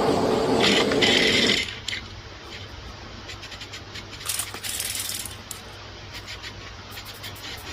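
A loud, steady machine-like noise cuts off about a second and a half in. Then come light clicks and rubbing of small parts being handled, with a short scrape about four seconds in.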